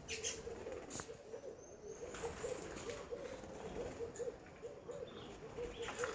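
A dove cooing: a steady run of short, low coos repeating several times a second, with a few sharp chirps and clicks from other birds over it.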